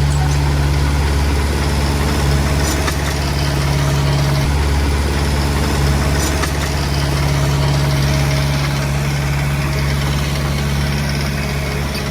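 Heavy diesel engine running steadily with a low, even hum, with a few faint metallic clicks over it.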